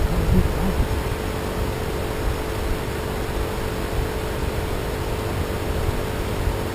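Steady hiss with a wavering low rumble: noise from an ION action camera's poor-quality microphone, which the camera's owner calls really bad.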